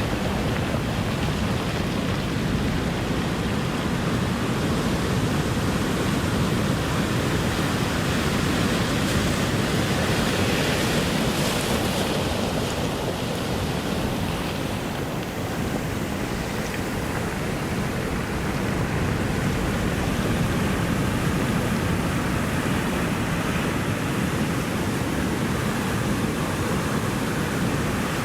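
Ocean surf: a continuous wash of breaking waves, swelling a little about a third of the way in and easing briefly after.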